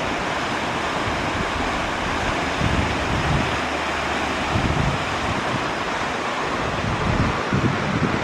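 Waterfall rushing steadily, with wind buffeting the microphone in low gusts now and then.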